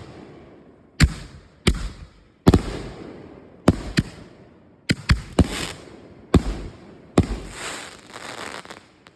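Consumer fireworks going off: about nine sharp bangs at uneven intervals, several trailed by crackling, with a longer crackle near the end before the sound stops suddenly.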